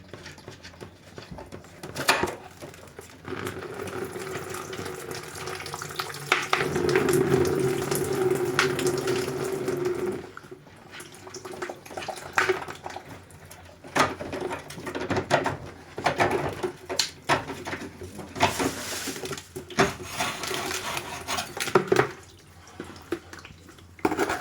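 Water running and splashing from a flat Ariston electric water heater being taken apart, with knocks and clatter of metal parts and tools. The water is steadiest from about 3 to 10 seconds in, and scattered sharp knocks follow.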